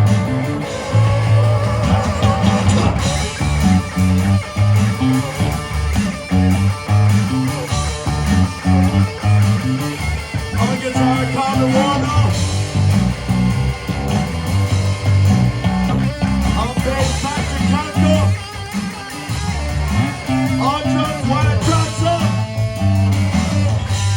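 Live garage rock band playing a blues-rock instrumental break: electric guitar lead over a steady bass line and drums.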